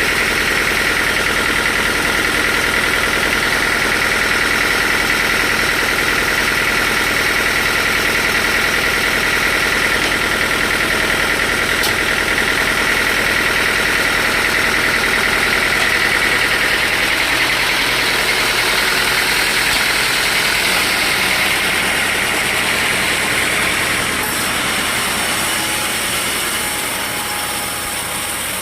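Sawmill machinery running steadily, with a high whine that fades about three-quarters of the way through as the sound eases a little.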